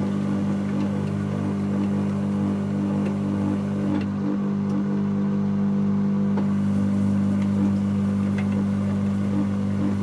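Dyson Contrarotator CR01 washing machine running mid-cycle: a steady motor hum with a few faint clicks.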